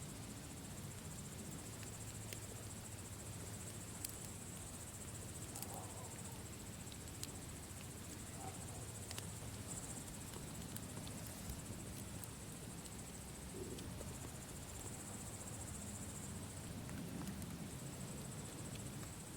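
Campfire burning, a low rumble with a few sparse sharp pops, under a steady high-pitched chirring.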